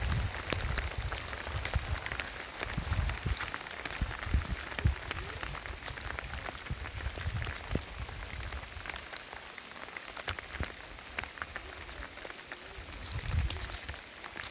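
Heavy rain falling, with many individual drops striking close by as sharp taps over a steady hiss. Low rumbling comes at the start and again briefly near the end.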